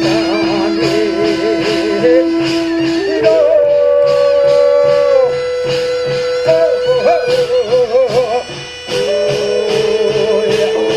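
Korean shaman-ritual (gut) music: a held, wavering melody line in long notes over steady, evenly spaced drum and cymbal strokes, the melody briefly dropping away about eight seconds in.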